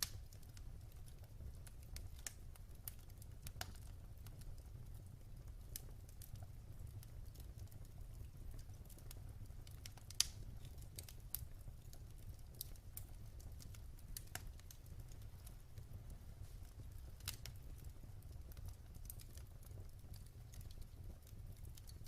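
Wood fire crackling in a fireplace: faint, irregular sharp pops and snaps over a steady low rumble of the burning, with one louder pop about ten seconds in.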